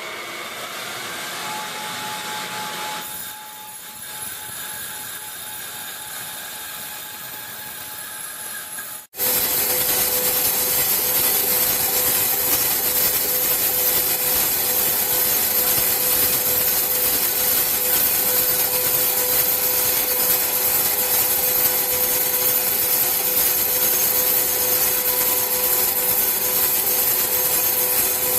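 Large mill saw cutting through wood: a steady rasping noise with a constant whine. About nine seconds in it switches abruptly to a much louder, denser cut.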